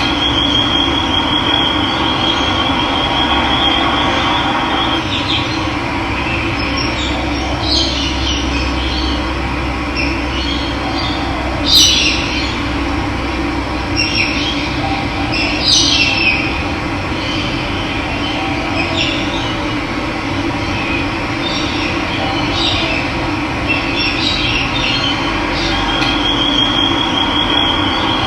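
Steady rush of running water, with birds chirping now and then through the middle, the sharpest call about twelve seconds in. A high trilling note sounds near the start and again near the end.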